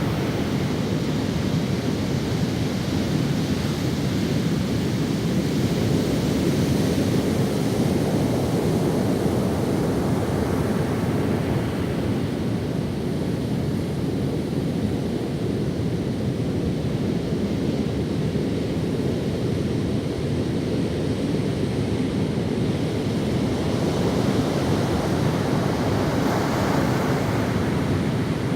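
Ocean waves breaking and washing up the sand in a continuous surf, swelling and easing slowly, with some wind on the microphone.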